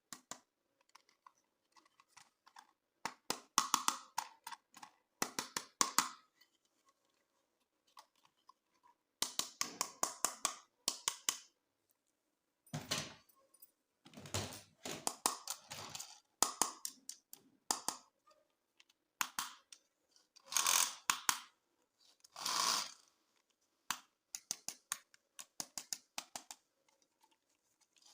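Hands handling plastic toys and packaging: bursts of rapid plastic clicking and snapping, with a few short stretches of crinkly rustling.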